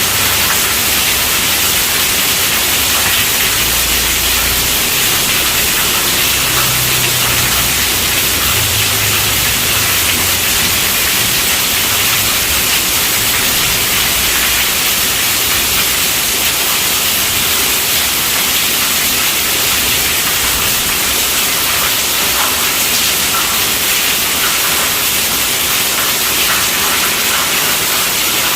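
Steady rainfall: a dense, even hiss of many drops with no breaks or separate impacts.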